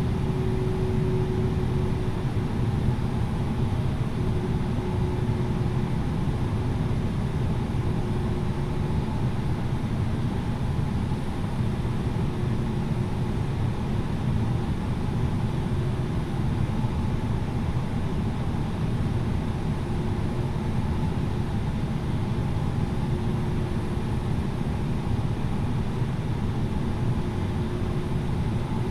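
Steady cabin noise of an Airbus A330-900neo on the ground: an even low rumble with a faint wavering whine over it.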